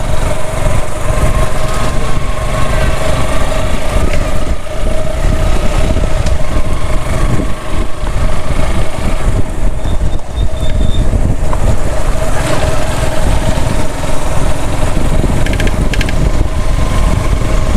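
Suzuki Gixxer SF FI's 155 cc single-cylinder engine running at a steady pitch while riding, under heavy wind rumble on the microphone.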